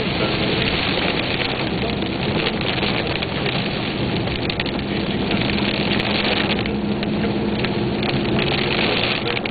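Rain falling on a moving car, heard from inside the cabin, a steady hiss with the car's road and engine noise running underneath.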